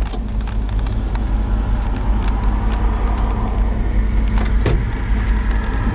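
The 1968 Ford F250's 360 V8 engine runs steadily under way, heard from inside the cab, with a couple of short rattles about four and a half seconds in.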